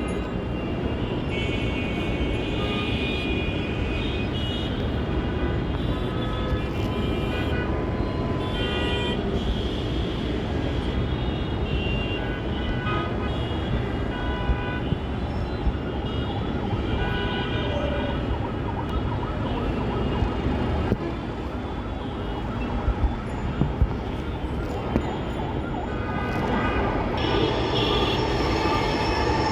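Heavy road traffic rumbling steadily, with vehicle horns sounding on and off throughout.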